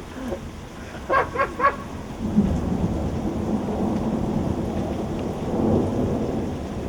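Heavy rain pouring down, with a long, deep roll of thunder that builds about two seconds in and rumbles on.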